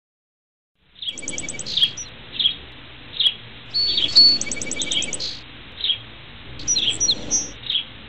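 Songbirds chirping: short chirps repeating every half second or so, with a few quick trills of several rapid notes, over a steady hiss. It starts about a second in, after silence.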